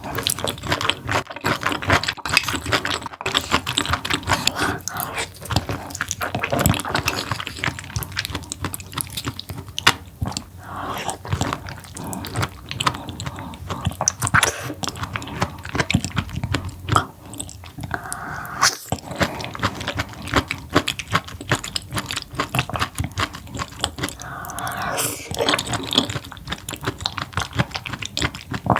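Close-miked eating of seafood: wet chewing and biting with many small mouth clicks, going on without a break.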